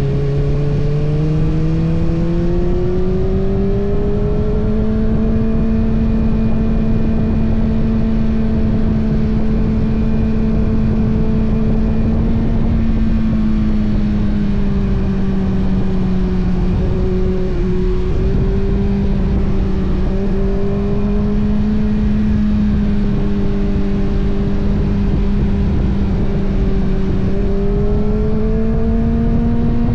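Kawasaki ZX-6R's inline-four engine pulling at steady cruising revs, with a constant rush of noise underneath. The pitch climbs over the first few seconds, holds, sags a little midway and climbs again near the end.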